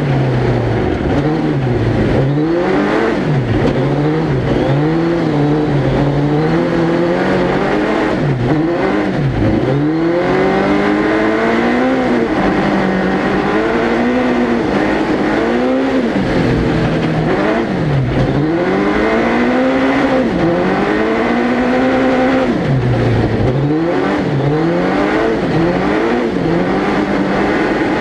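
Suzuki Hayabusa 1300cc inline-four motorcycle engine in a four-wheel-drive ice-racing prototype, heard onboard under hard driving: the revs climb and drop again and again every second or two through gear changes and lifts for the corners.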